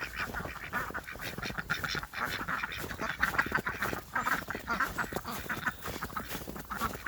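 A flock of Silver Appleyard ducks quacking and chattering together in quick, overlapping calls.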